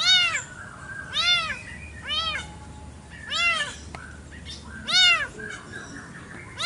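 A cat meowing repeatedly: five short, high meows, each rising and then falling in pitch, about one every second and a bit.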